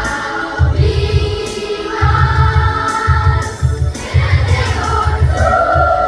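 Children's choir singing a song together over a recorded backing track with a pulsing bass beat.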